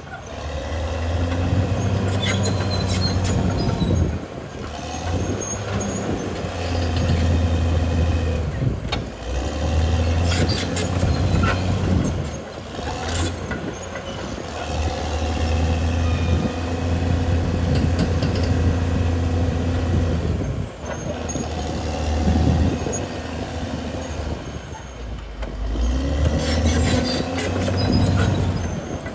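Caterpillar D6R XL bulldozer's diesel engine working, its note rising and falling every few seconds as the load changes, with metallic clanks from the steel tracks and blade.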